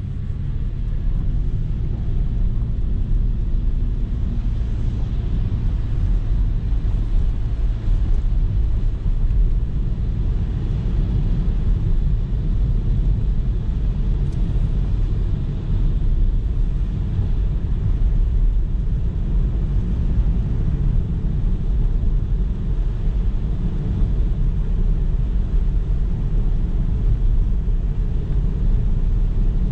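Steady low rumble of a car driving along a road, engine and road noise.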